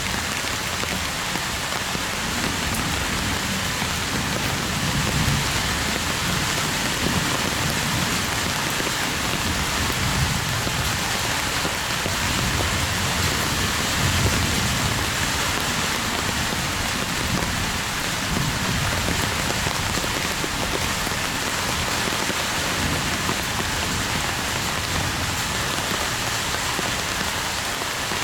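Heavy rain falling steadily, a dense even hiss of drops, with low rumbles coming and going underneath.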